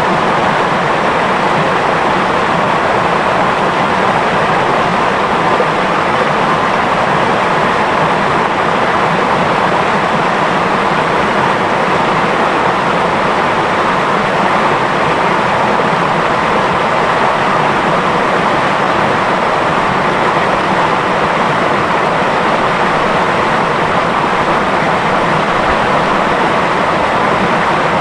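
Clear river running steadily over its bed, a loud, even rush of water with no breaks.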